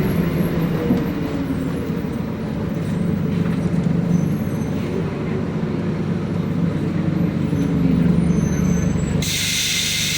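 City bus's diesel engine running with a steady low drone and a faint whine that slides slowly in pitch as the bus moves. About nine seconds in, a sudden loud hiss of compressed air starts from the bus's pneumatic system and keeps going.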